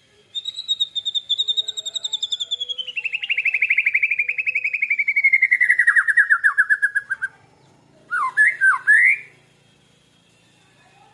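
Caged birds singing: a long rapid trill of clicking notes that slowly falls in pitch for about seven seconds, then after a short gap a brief burst of quick warbled phrases.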